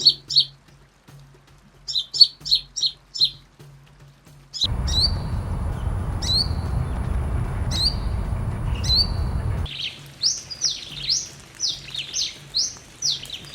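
Brown-throated sunbird calls, shrill and high-pitched. First comes a quick run of short sharp notes, then single rising chirps about every second and a half over a steady rushing background, then a fast string of down-slurred notes at about three a second.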